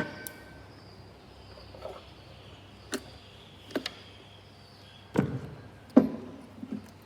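A few sharp clicks and knocks at uneven intervals over a faint background, the loudest about six seconds in.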